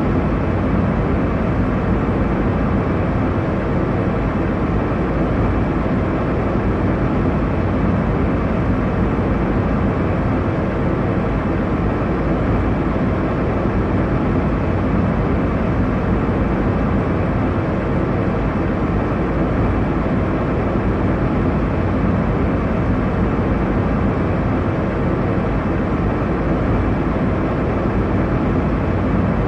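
Steady airliner cabin noise in flight: an even low rumble and rush of engine and airflow noise, weighted to the low end, with no changes.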